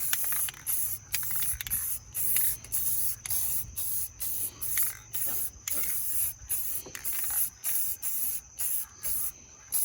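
Aerosol spray-paint can sprayed in short hissing bursts, about two a second, while painting wheels black.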